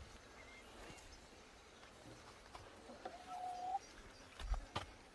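A faint single drawn-out bird call, held on one pitch for under a second, a little after the middle, with a brief chirp early on. A few soft knocks near the end.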